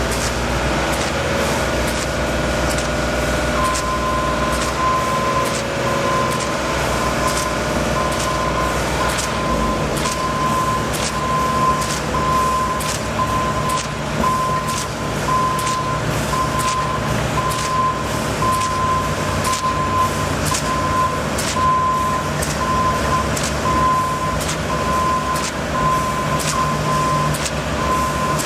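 A heavy vehicle's diesel engine running, with a reversing alarm that starts beeping a few seconds in and keeps on at an even pace. Frequent short, sharp clicks or knocks sound over it.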